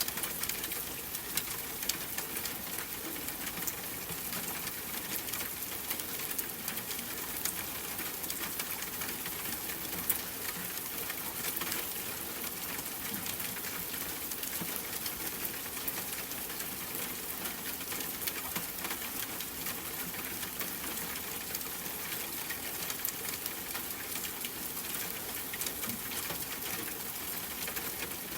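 Steady rain patter: an even hiss with many small drop ticks throughout.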